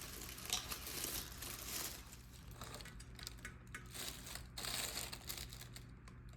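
Packing material crinkling and rustling as it is handled, with scattered small crackles and clicks.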